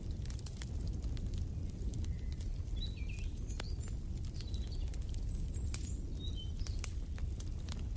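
Wood fire crackling in a fireplace: many sharp pops and snaps over a steady low rumble. Several short bird chirps come in the middle.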